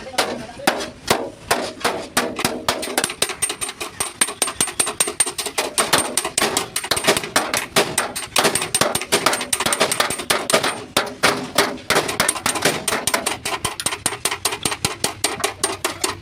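Rapid hammering on the sheet-steel panels of a Tata truck cabin during dent repair. Sharp metallic blows come at about five a second, with a faint high ring from the metal for much of the time.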